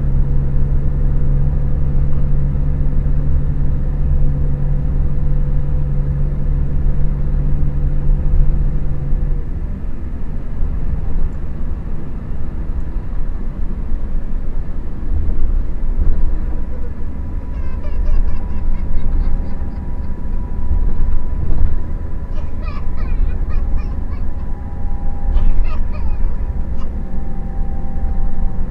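Scania K400IB coach running on the road with a loud, steady low rumble. A steady hum on top cuts off suddenly about nine seconds in, and a few faint high squeaks come near the end.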